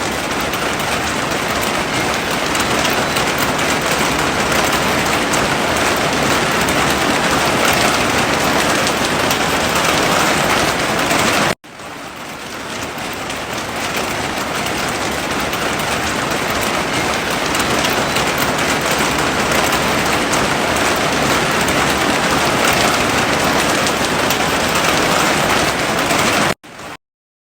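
Heavy rain falling as a dense, steady hiss. It cuts out abruptly about halfway through, swells back in over a second or two, and drops out briefly again near the end.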